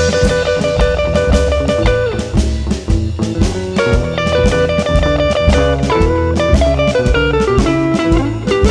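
Blues band playing an instrumental passage: electric guitar soloing with held, bent notes over bass and a steady drum-kit beat.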